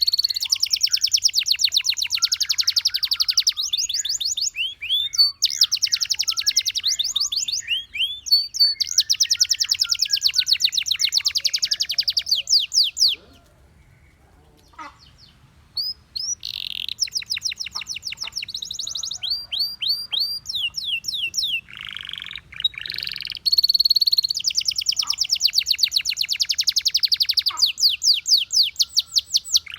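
Domestic canary singing long rapid trills and rolls of quick repeated notes, mixed with sweeping whistled glides. The song breaks off for about three seconds midway, then resumes.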